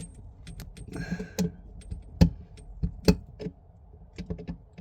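Flathead screwdriver tightening a kitchen tap's screw-in fixing piece: irregular small metallic clicks and taps, the sharpest about two and three seconds in.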